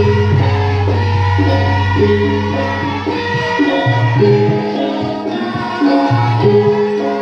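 A live band plays folk-style music: a melody moves over sustained bass notes, with hand-drum and jingle percussion.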